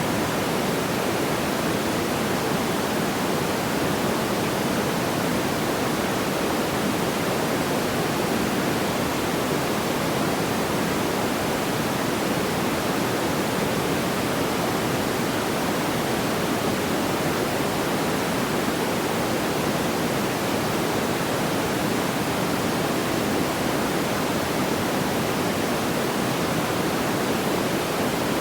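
Steady, even rushing noise like pink noise, fullest in the lower-middle range, with no distinct crackles or pops and no change throughout.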